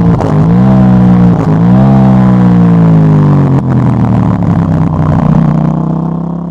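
KTM 890 Duke GP's parallel-twin engine through a Dominator HP8 slip-on exhaust with its dB-killer fitted, running loud under way. The engine note dips sharply twice and recovers, then falls slowly as the revs drop. It fades out near the end.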